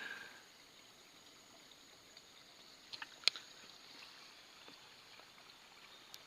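Faint trickle of flowing stream water, with a few small sharp clicks about three seconds in.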